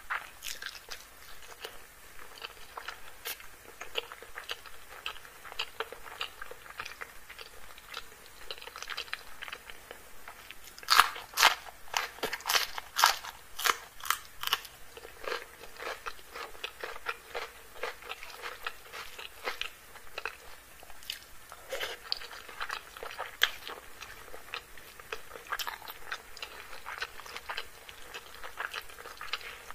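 Close-miked chewing and crunching of a mouthful of chicken curry and rice eaten by hand, a steady stream of small clicky mouth sounds. The loudest crunches come in a quick run about eleven to fifteen seconds in, with another burst a little after twenty seconds.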